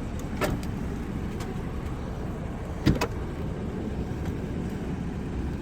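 A few sharp clicks against a steady low rumble: one about half a second in and a close pair about three seconds in, the loudest. They sound like hard plastic fittings being handled inside a car.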